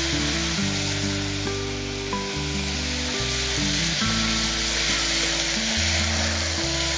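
Diced beetroot and spice powders sizzling in hot oil and ghee in an aluminium pressure cooker as they are stirred with a wooden spatula. A steady frying hiss sits over background music with low held notes.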